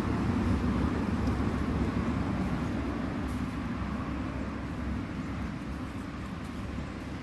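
Steady low rumbling background noise, slowly growing fainter, with no clear single event.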